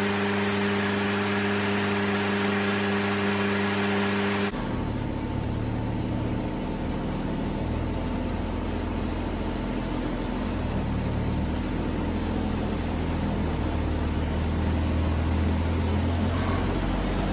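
Ford 8N tractor's four-cylinder engine running, with an uneven low rumble. For the first four seconds or so a different steady hum with a hiss is heard, which cuts off abruptly.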